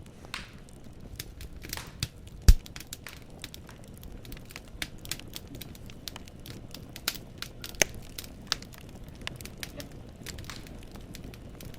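Wood fire burning in a fireplace: logs crackling and popping at irregular intervals over a low steady rumble of the flames, with one loud pop about two and a half seconds in.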